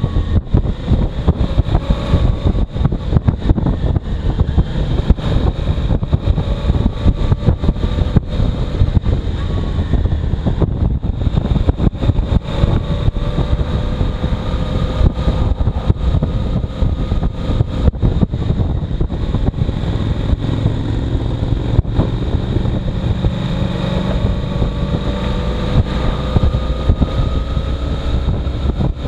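Heavy wind buffeting the microphone of a moving motorcycle, with the engine's note faintly underneath and rising slowly over several long stretches.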